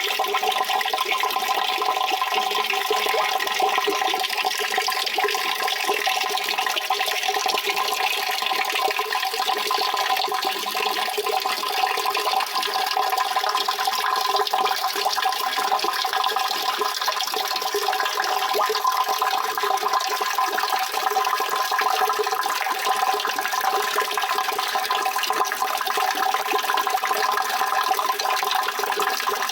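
Steady rushing water, an even unbroken wash of noise with no change or pauses.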